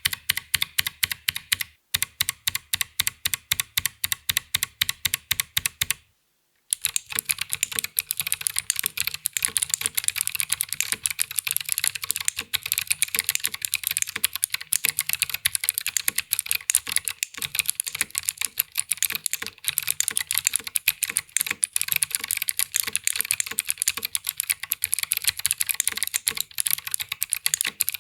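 Mechanical keyboard fitted with Akko Creamy Cyan clicky switches being typed on: a run of evenly spaced keystrokes, then after a short break about six seconds in, fast irregular typing.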